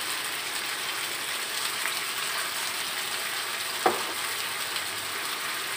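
Chicken pieces, onion and ginger frying in oil in a wok, a steady sizzle. A single sharp knock a little before four seconds in.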